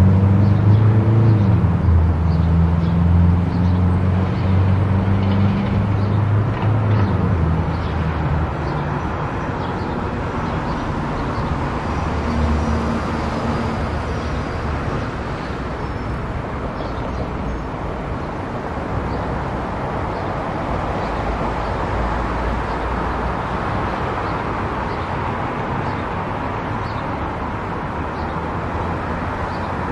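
Car driving on a highway: steady road and tyre noise, with a low engine hum that is strong at first and fades away after about eight seconds.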